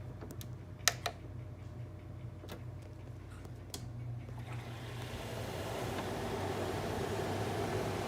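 Friedrich Kuhl SS12N30CA 12,000 BTU window air conditioner starting on high cool. A few sharp clicks come first. From about halfway the blower fan spins up, and its rush of air grows louder, then holds steady over a low hum.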